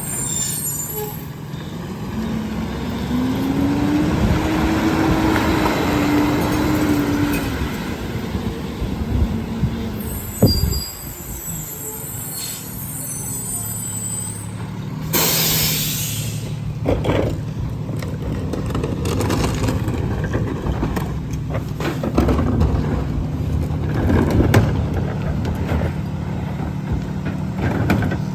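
Garbage truck's engine revving up and settling back as it drives the hydraulic packer compacting recycling, with a short loud air hiss about halfway through and scattered knocks and clanks.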